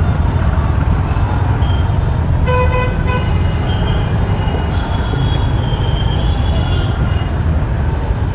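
Road traffic heard from a moving motorbike, with a heavy steady low rumble. A vehicle horn honks once, for under a second, about two and a half seconds in, and other horns sound fainter over the next few seconds.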